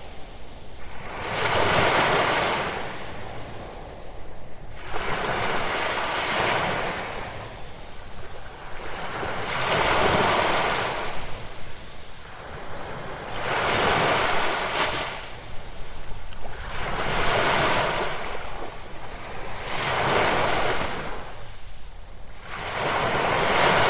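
Ocean waves breaking on a shore one after another, each rush of surf swelling and fading about every three to four seconds.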